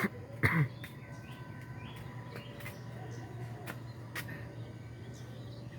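Birds chirping faintly over a low steady hum, with a short loud burst about half a second in.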